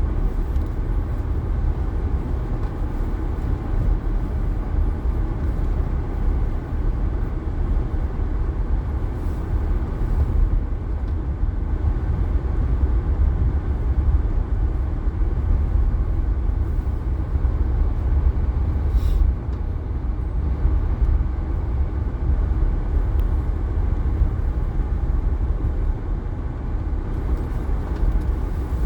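Steady low rumble of a car driving along a highway, with road and engine noise heard from inside the cabin.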